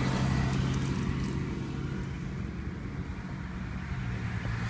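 Toyota Camry engine idling just after being started, a steady low hum that eases down and grows quieter over the first few seconds as the idle settles.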